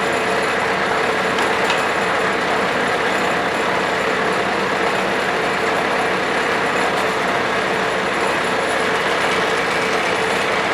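Vermeer BC1000 wood chipper running steadily, its engine and cutting drum making an even mechanical drone with a steady hum.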